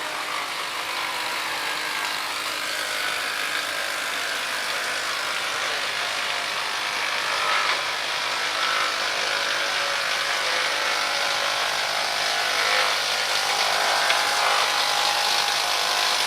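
The 1916 Victor kit tractor's exposed Fairbanks Morse engine and gearing running with a steady mechanical noise. The noise grows gradually louder.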